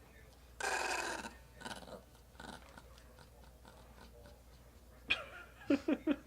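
Chihuahua worked up and making rough growling snorts: one loud, raspy burst about half a second in, then quieter grunts. A quick run of short, sharp sounds comes near the end.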